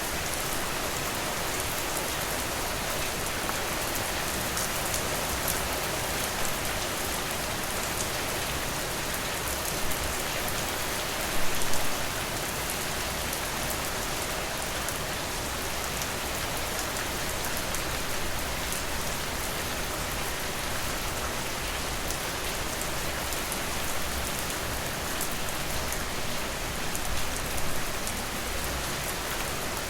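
Steady rain falling, a dense even hiss with fine drop taps throughout. It swells briefly louder about eleven seconds in and again near the end.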